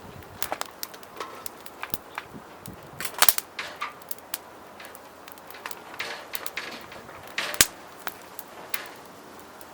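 Irregular sharp clicks and snaps of campfire cooking, a few with a short metallic ring like utensils knocking cookware, the loudest about three seconds in and again near the end, over a low steady hiss.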